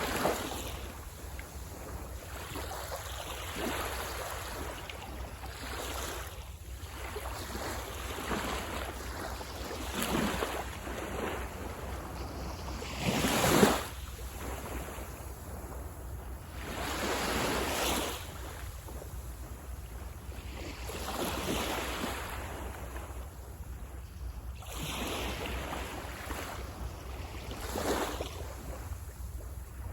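Small waves breaking and washing onto a sandy beach, one surge every few seconds, the loudest about halfway through, with a steady low wind rumble on the microphone.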